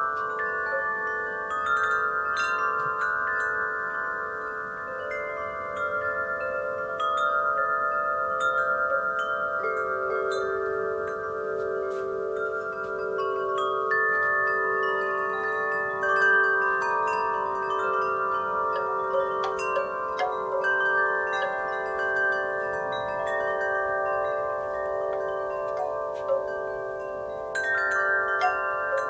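Wind chimes struck at random by the breeze, many overlapping ringing tones that sustain and blend into a continuous shimmer.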